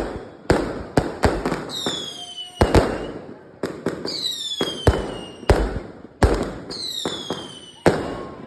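Fireworks going off in quick succession: about a dozen sharp bangs, several followed by a whistle that falls in pitch over about a second.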